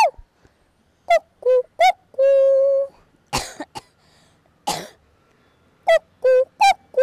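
A woman imitating the call of the Asian koel with her voice: three quick short notes, then one long held note, a phrase that comes twice. Between the two phrases come two short coughs.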